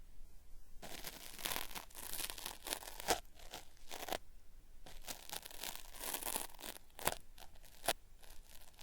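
Cotton swab scraping inside the ear of a binaural microphone: ear-cleaning ASMR made to sound like something being peeled off, a crackly 'beri-beri' ripping. After a short pause it comes in irregular strokes, some drawn out and some short and sharp.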